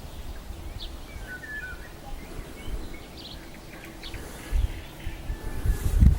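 Wild birds giving short, scattered chirps. A low rumble on the microphone builds in the last couple of seconds.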